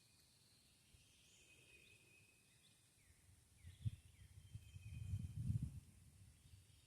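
Faint outdoor ambience with distant birds calling in short chirps and downward-sliding notes. About halfway through, a low rumbling and thumping comes in for a couple of seconds and is the loudest sound.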